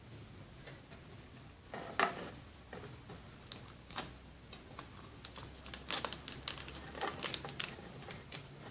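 Scattered light clicks and taps from small parts being handled on a homemade tin-can Stirling engine, with sharper knocks about two, four and six seconds in and a quick cluster around seven seconds in.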